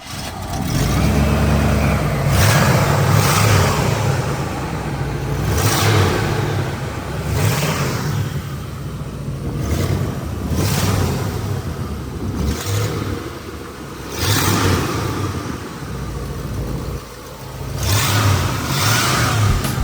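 1979 Pontiac Firebird Trans Am's 403 cubic-inch (6.6 L) V8 running and being revved, rising and falling back about six times.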